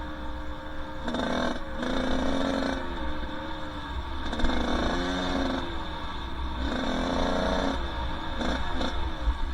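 Two-stroke dirt bike engine running along a trail, its pitch rising and falling as the throttle is blipped in about four louder bursts, with a low wind rumble on the microphone.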